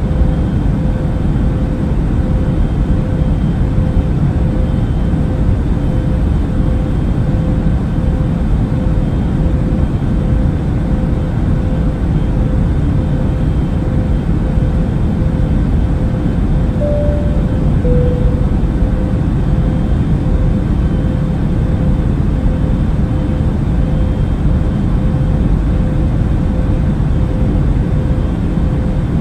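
Steady airliner cabin noise: the drone of jet engines and airflow, strongest in the low range, with a faint steady hum. About 17 seconds in, two short notes sound, high then low, like a cabin chime.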